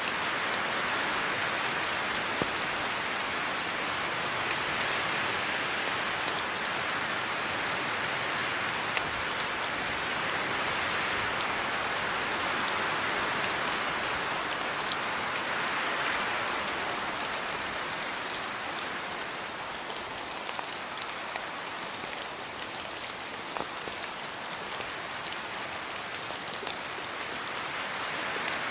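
Steady rain falling on a yard, an even hiss with scattered individual drop ticks, easing slightly in the last third.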